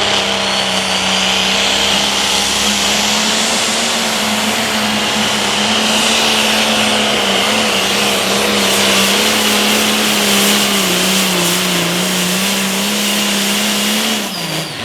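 The turbocharged diesel engine of an International 1066 Limited Pro Stock pulling tractor running flat out under load down the track, holding a steady high pitch with a high turbo whistle over it. The pitch sags a little several seconds before the end, then falls and the sound drops away at about 14 seconds as the throttle comes off at the end of the pull.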